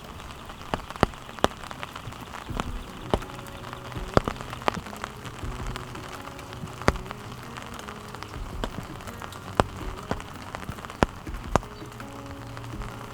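Steady rain falling, with individual heavy drops landing close by as sharp irregular taps.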